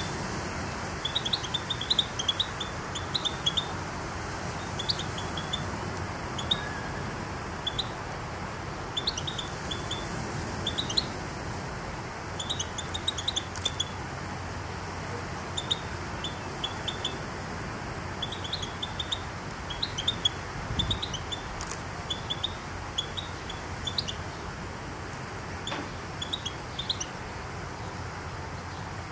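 Small birds chirping: short, high chirps in quick clusters every second or so, over a steady low background noise.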